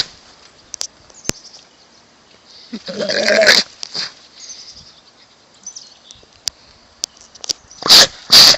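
Animal calls: one loud drawn-out call about three seconds in, then two short, very loud, harsh calls close together near the end.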